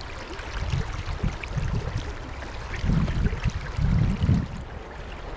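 Fast river current rushing steadily, with louder low gurgling swells of water about three and four seconds in.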